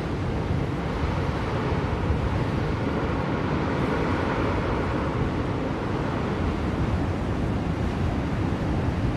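Steady blizzard wind blowing, a continuous low rushing noise with gentle swells.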